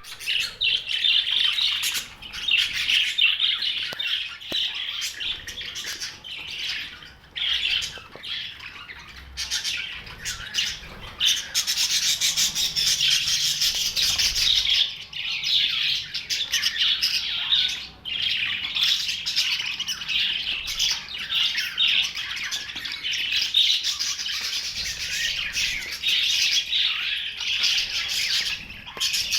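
A flock of budgerigars chattering and chirping continuously, with busy, overlapping high calls and occasional squawks.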